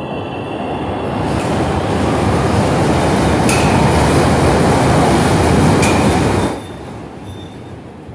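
CTA Pink Line elevated train pulling out past the platform. The wheels rumble on the rails and the noise grows louder as the train speeds up, with two sharp clacks along the way. The noise drops suddenly about six and a half seconds in, as the last car clears.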